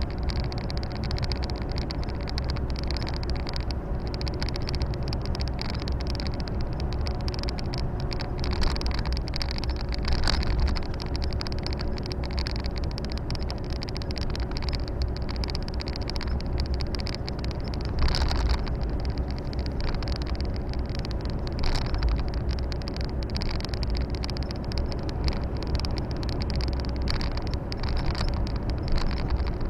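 Volvo FH 460 truck's six-cylinder diesel engine running steadily while driving, heard from inside the cab along with road and tyre noise. A few brief knocks sound now and then.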